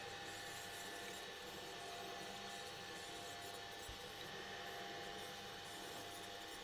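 Faint steady hum with a hiss and no distinct events, apart from one brief low thump about four seconds in.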